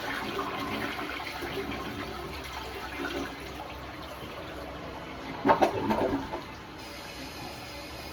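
Toilet flushing: a rush of water that fades over the first few seconds, then a loud clatter about five and a half seconds in.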